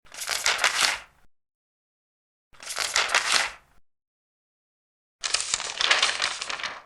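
Large paper pages being turned, three turns about two and a half seconds apart, each a crisp rustle lasting about a second. The last one is a little longer.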